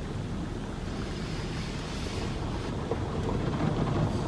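Automatic tunnel car wash spraying water and soap over the vehicle, a steady rushing hiss heard from inside the car.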